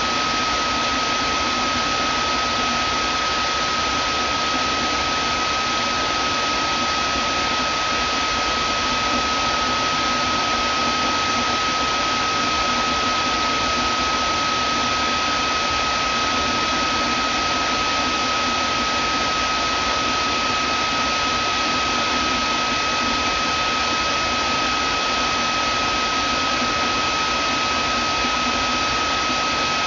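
Vacuum cleaner motor running steadily: an even rush of air with a steady high whine over it.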